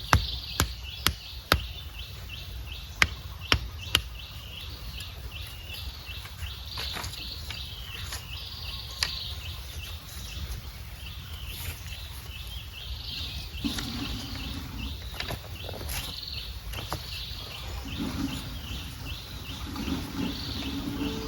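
Small birds chirping rapidly and continuously in a high, busy chorus. Over the first few seconds there are sharp knocks, about two a second.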